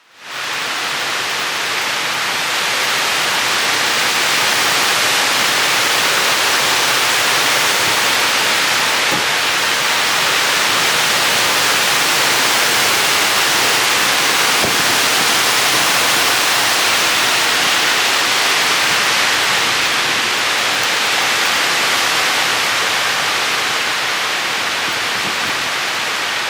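Strong mountain wind blowing hard, a loud, steady rushing hiss.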